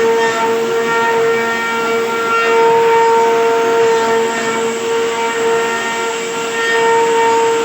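An electric woodworking machine running steadily, with a constant high whine over a rushing, scraping noise.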